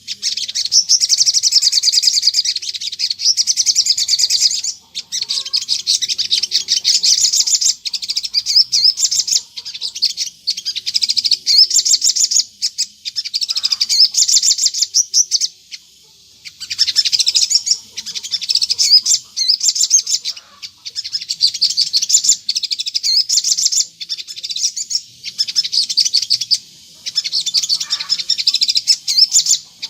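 Crimson sunbird (sogon) singing a fast, high twittering song in long continuous phrases of several seconds each, with short breaks between them.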